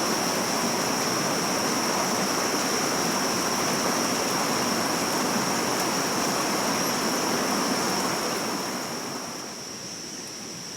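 A stream rushing steadily, with a thin steady high tone above the water noise; it turns softer about nine seconds in.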